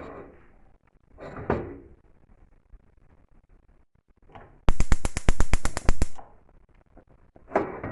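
Gas stove's spark igniter clicking rapidly, about nine sharp clicks a second for a second and a half, with kitchen handling knocks before and after.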